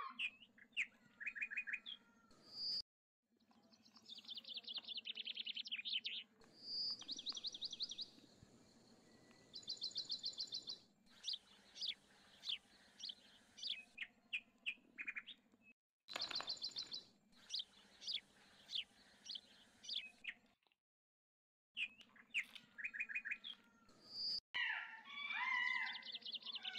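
Small birds chirping and singing in rapid trills, in short repeated bursts broken by sudden silences.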